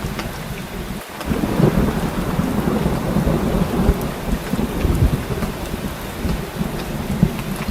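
Heavy rain falling steadily, with fine drop ticks, under rolling thunder. A deep thunder rumble swells about a second in and slowly fades.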